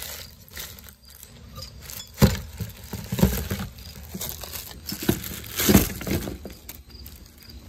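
Handling noise from ceiling fan parts and their packaging: several knocks and bumps, the loudest about two seconds in and again near six seconds, with rustling between.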